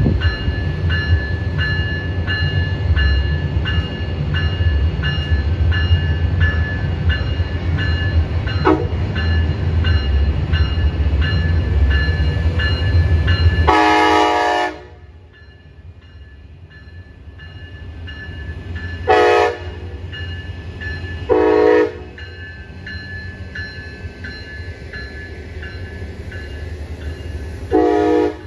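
A train runs close by with a heavy low rumble while a bell rings about twice a second. About halfway there is one long horn blast, after which the rumble drops away sharply. Three short horn blasts follow, the last near the end.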